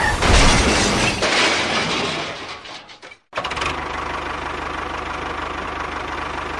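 A small engine-like motor running, with a hard cut to silence about three seconds in; it then resumes as an even, rapid chugging.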